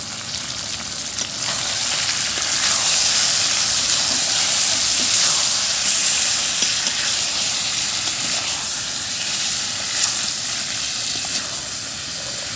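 Chicken and spice paste frying in hot oil in a pan, sizzling harder from about a second and a half in as sour yogurt goes in, then easing off.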